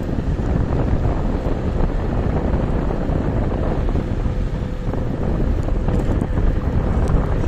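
Wind buffeting the microphone of a KuKirin G2 electric scooter at riding speed, a steady low rumble with a faint steady tone underneath.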